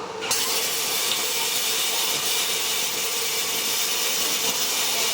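Electric arc welder running a weld bead on steel: a steady, even hiss that starts about a third of a second in.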